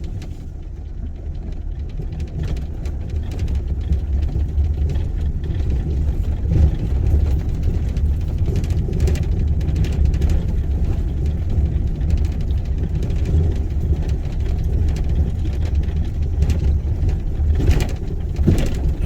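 Steady low rumble of a car driving, heard inside the cabin: tyre and engine noise, with scattered knocks and rattles and a couple of sharper ones near the end.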